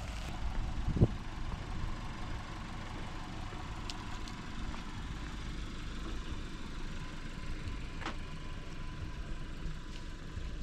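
Audi convertible's engine idling, a low steady rumble, with one thump about a second in and a few faint clicks.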